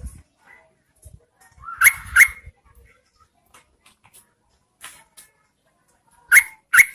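Yellow-vented bulbul calling: two pairs of short, sharp notes, one pair about two seconds in and another near the end.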